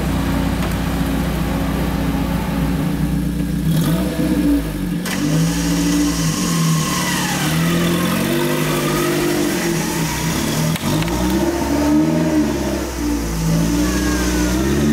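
UAZ off-road vehicle's engine running steadily, then revving up and down repeatedly under load from about four seconds in as it churns through deep mud.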